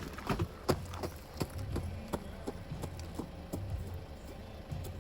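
A run of sharp taps or knocks, about three a second and loudest in the first second, over a low steady hum.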